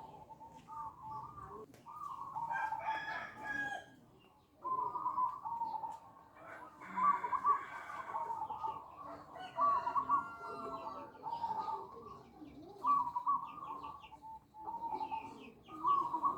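Perkutut (zebra dove) cooing in repeated phrases of quick staccato notes, played as a lure call to draw other doves into answering. Faint, fast high-pitched ticking notes come in near the end.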